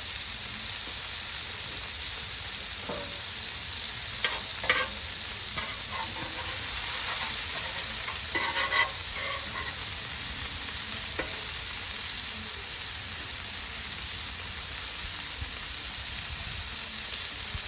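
Burger patties and bacon frying on a flat-top griddle: a steady sizzle, with a few light knocks or scrapes along the way.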